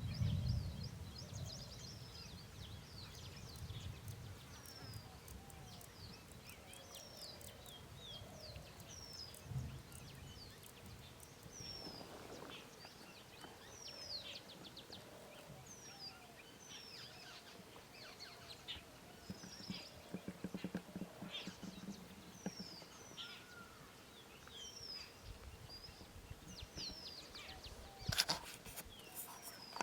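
Birds chirping: many short, falling chirps repeated throughout, with fainter lower calls among them. A low rumble sounds in the first few seconds and a sharp knock comes near the end.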